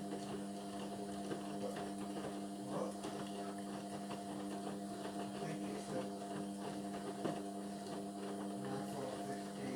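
Indesit washing machine running on a synthetics programme: a steady hum with faint clicks and knocks.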